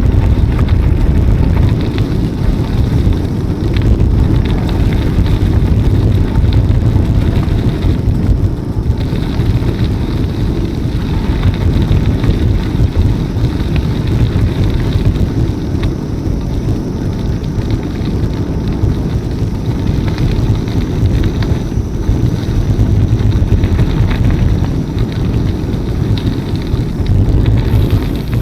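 Steady low rumble of wind buffeting the microphone and tyre noise from a moving bicycle.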